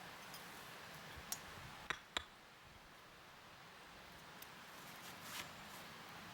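Three sharp clicks, about a second and two seconds in, then a brief rustle near the end, over a faint steady hiss.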